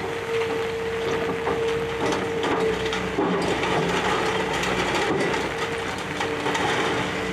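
Excavator demolishing a building: debris crunching and crackling continuously, over a steady machine whine that drops out now and then.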